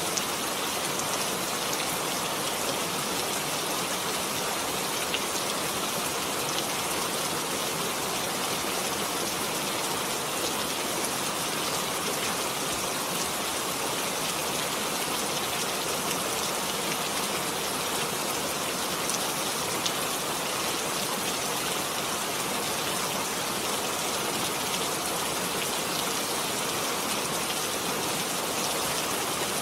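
Heavy rain falling steadily, a dense even hiss of drops with the odd sharper drop tick.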